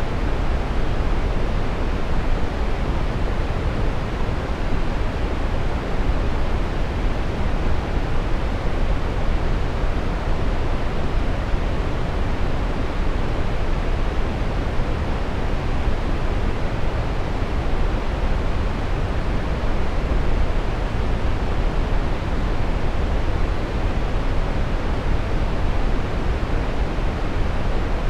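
Steady synthetic brown noise: an even, deep rushing hiss, strongest in the bass and rolling off toward the treble, with no changes or events.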